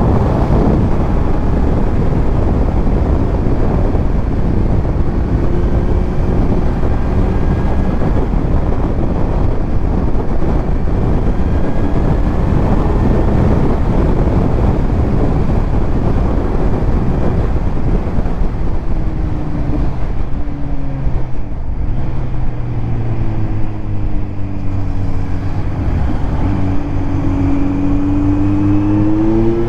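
Kawasaki Z900 inline-four motorcycle with a titanium Arrow exhaust riding along, its engine buried in heavy wind rush at first. Past the middle the wind eases and the engine note comes through, falling in pitch as the bike slows. Near the end it rises sharply as the rider accelerates.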